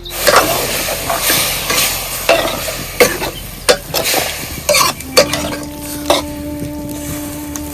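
Food sizzling in a frying pan while a utensil stirs and scrapes it, with sharp scraping strokes over a steady hiss.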